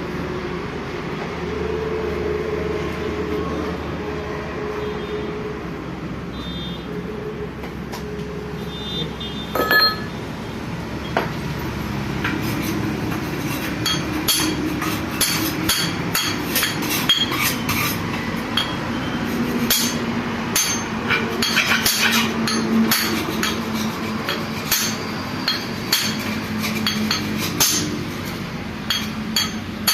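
Hammer blows on metal parts of a Massey Ferguson tractor gearbox, ringing and clinking: one blow about ten seconds in, then a long run of quick, irregular strikes.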